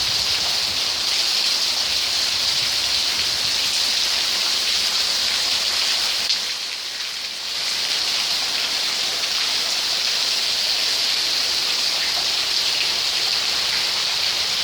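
Steady rain falling, a constant hiss that dips briefly about halfway through.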